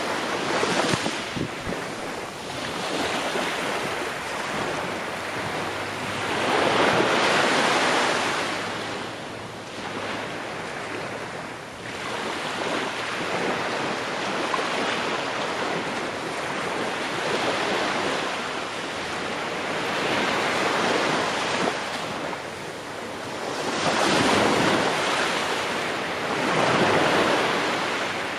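Ocean waves breaking and washing in, a continuous surf that swells and falls back every few seconds, with several louder breakers.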